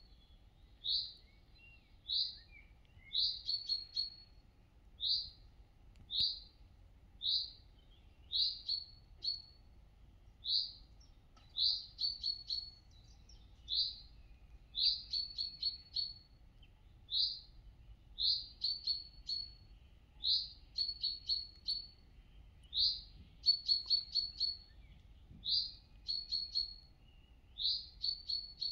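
Songbird singing: a short high note repeated about once a second, many of them followed by a quick run of three or four chirps.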